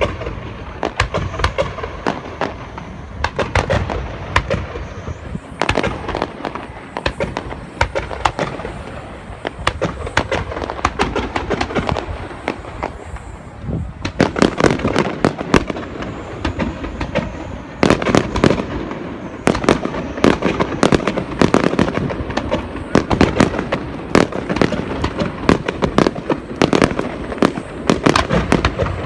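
Japanese starmine fireworks: aerial shells fired in rapid succession, many booms and crackling bursts overlapping. There are brief lulls, and the barrage is heaviest in the second half.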